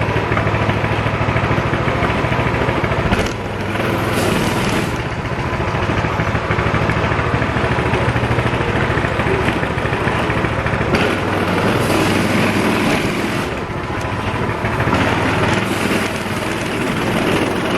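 Coleman CT200U-EX minibike's small single-cylinder four-stroke engine running with its governor removed, its note changing a few times as the throttle varies.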